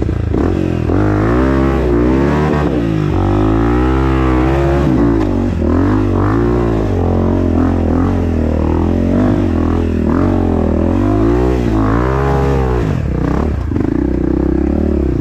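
Honda CRF dirt bike engine revved hard again and again under load, its pitch rising and falling every second or so.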